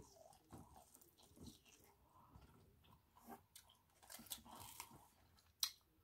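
Faint biting and chewing of a spiced corn on the cob, with soft crunches, and one sharp click near the end.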